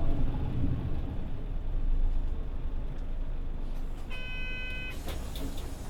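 Cabin sound of a Mitsubishi Fuso Aero Star city bus (PJ-MP35JM), with the diesel engine running at a low hum. About four seconds in, a single electronic beep sounds for just under a second. A burst of hiss with clicks follows near the end.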